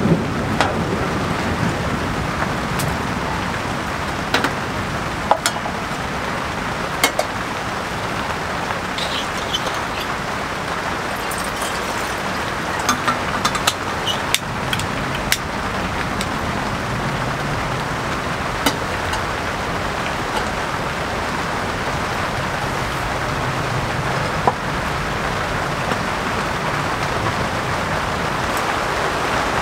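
Steady rain falling on a polycotton (TC) tent, an even hiss, with scattered light clicks and taps through it.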